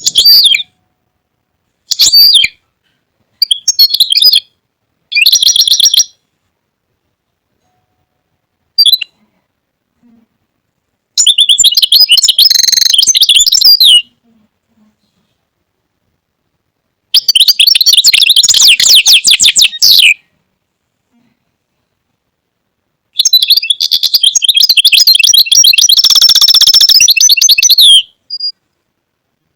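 European goldfinch song: bursts of fast twittering phrases with silent gaps between them. Several short phrases come in the first few seconds, then three longer runs of three to five seconds each.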